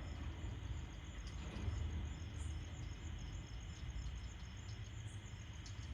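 Faint background sound: a steady, high-pitched chirping that pulses evenly, over a low hum.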